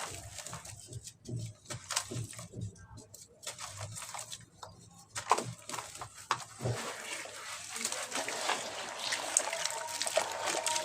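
Soft cement with white grains crumbling in water: a run of separate crackles and small splashes, turning into a denser, steady fizzing crackle from about seven seconds in.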